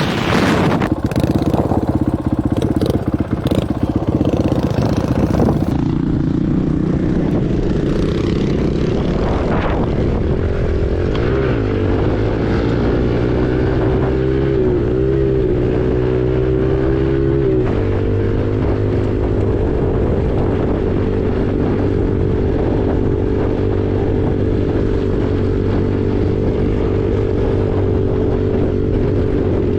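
Single-cylinder four-stroke engine of a Husqvarna 501 dirt bike running under riding, with wind buffeting the unshielded microphone and rattly clatter in the first few seconds. The engine pitch rises and falls a few times around the middle, then holds steady.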